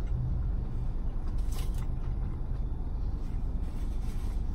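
A person chewing a mouthful of burger, with a couple of brief crisp mouth or napkin sounds about one and a half seconds in. A steady low rumble inside the car runs underneath.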